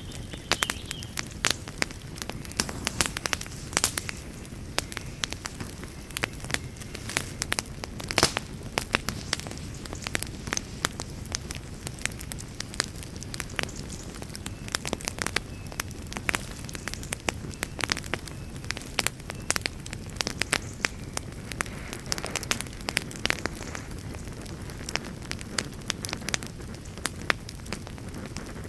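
Wood campfire burning, with irregular sharp crackles and pops from the burning wood over a steady low rushing noise.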